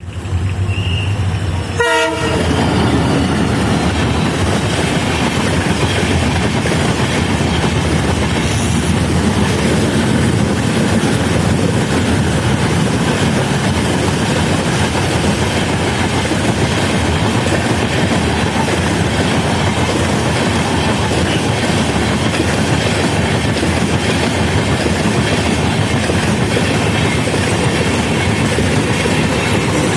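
A train passing close by on the rails, its wheels and wagons making a loud, steady rumble with a clattering hiss. A sharp click comes about two seconds in, and the noise holds even after it.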